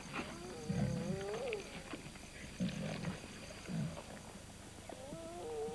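Lions growling over a carcass in short low bursts, with a hyena's high, wavering calls rising and falling twice, once near the start and once near the end.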